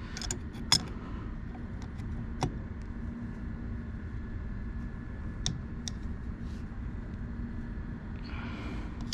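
Steady low background hum with a faint constant tone, broken by a few short light clicks and taps, typical of metal parts and tools being handled during a compressor tear-down.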